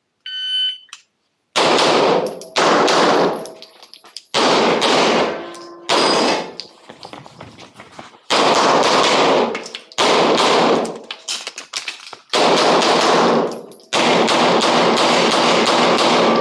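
A shot timer beeps once, then a Smith & Wesson M&P9 Pro 9mm pistol fires fast strings of shots in about eight bursts with short pauses between them. Each burst leaves an echoing tail.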